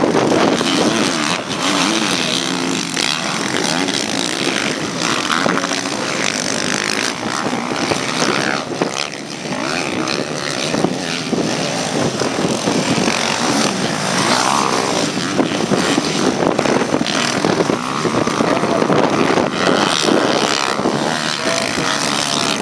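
Open-class motocross bikes racing, their engines revving up and down as they run the track.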